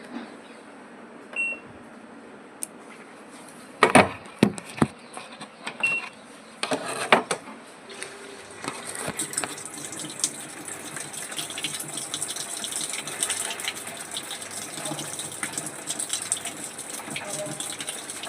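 IFB top-load washing machine in test mode: two short control-panel beeps and a few knocks, then water starts rushing steadily into the tub through the inlet valve about eight or nine seconds in.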